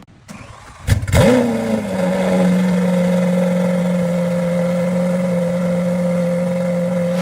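Lamborghini supercar engine cold-started: after a short crank it fires about a second in with a rev flare, then drops back and settles into a steady idle.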